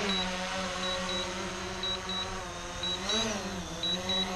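Quadcopter drone's propellers humming as it descends to land, the pitch swelling up and back down once about three seconds in. A short high double beep repeats about once a second: the remote controller's low-battery warning.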